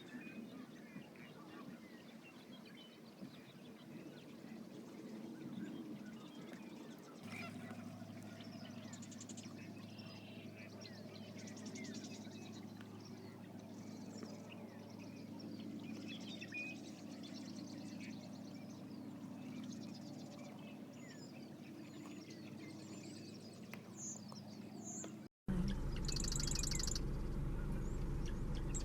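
Wetland bird chorus: many birds chirping and calling, with duck calls among them. A low steady hum comes in about a quarter of the way through, and near the end the sound jumps louder, with a low rumble under a high trilling call.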